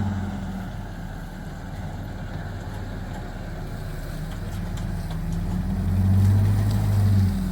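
An engine running. It slows at first, then speeds up and grows louder about six seconds in, and eases off near the end.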